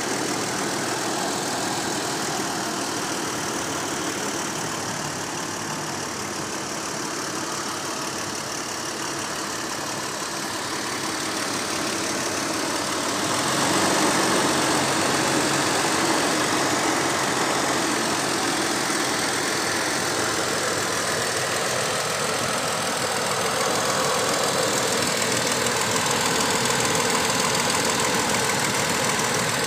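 Toyota Tacoma's VVT-i V6 engine idling steadily, heard close up with the hood open. It grows somewhat louder about halfway through, as it is heard from nearer the front of the engine by the hoses and belt.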